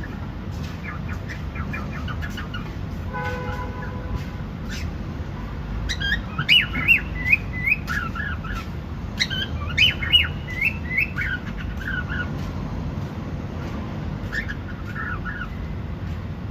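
Cockatiel chirping and whistling in quick strings of short rising and falling notes, loudest in two runs about six and nine seconds in, over a steady low background noise.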